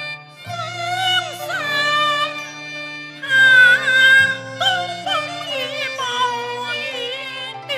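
Cantonese opera (yuequ) music ensemble playing an instrumental interlude: a melody of bending, wavering notes over steady low accompaniment, loudest a few seconds in.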